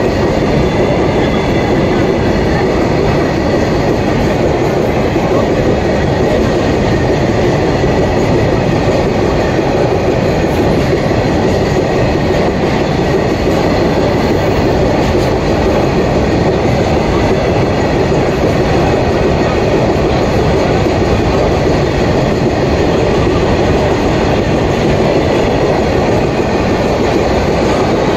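BOXN open steel freight wagons rolling past close by, a loud, steady rumble and clatter of their wheels on the rails that keeps on without a break.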